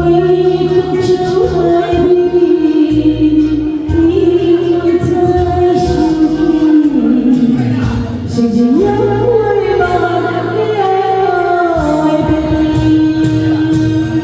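Karaoke singing: one person sings a song's melody over a recorded backing track, holding and sliding between long notes.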